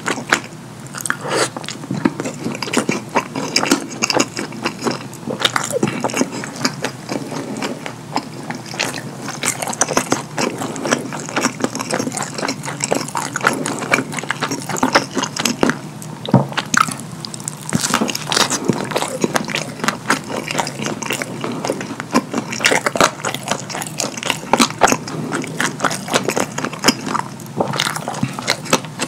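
Close-miked, wet open-mouth chewing and lip smacking of a McDonald's cheeseburger soaked in cheese sauce: a dense, irregular run of sticky clicks and squelches.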